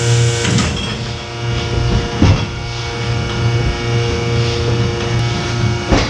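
Milking parlour machinery running: a steady hum with a low throb pulsing about twice a second, like milking-machine pulsators, and a few knocks and clanks in between.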